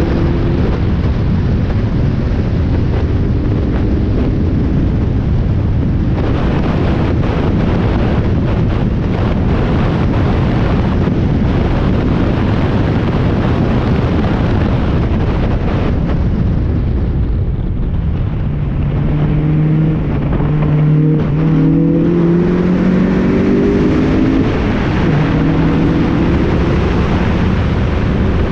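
Spec Miata four-cylinder race engine running hard on track, with wind and road noise. Its pitch climbs near the start, drops and eases briefly past the middle, then climbs again in several rising sweeps as it accelerates through the gears.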